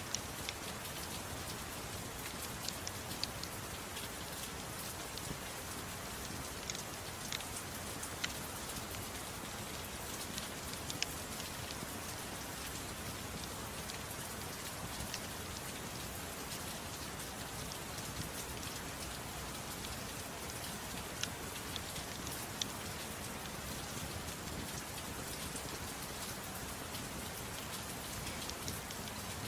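Steady soft rain falling, an even hiss with scattered sharp ticks throughout.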